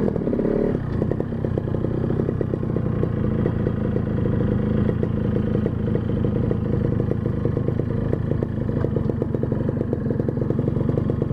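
Motorcycle engine running steadily under way, its carburettor breathing through a refitted box air filter.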